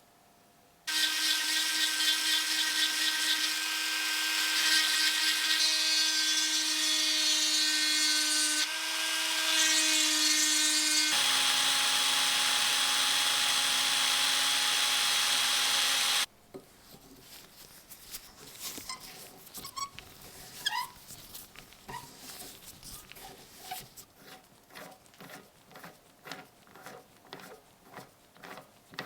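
An electric power tool runs steadily for about fifteen seconds, its pitch shifting slightly a few times, then stops abruptly. Light clicks and taps follow.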